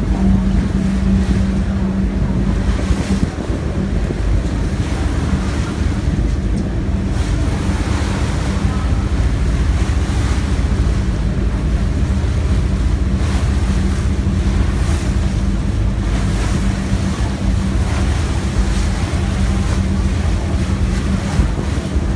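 A ferry's engine drones steadily with a constant low hum, over rushing water and wind buffeting the microphone.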